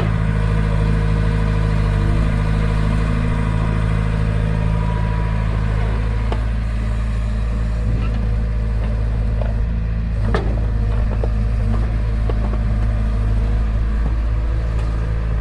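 Tractor diesel engine running steadily, with a couple of sharp knocks about six and ten seconds in.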